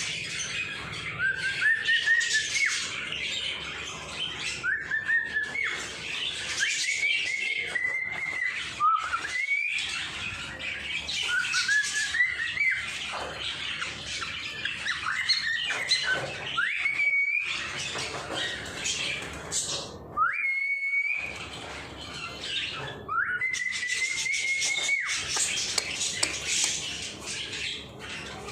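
Pet birds chattering and squawking, with a whistled call that rises and then holds, repeated about ten times; the longest, held for about two seconds, comes near the end.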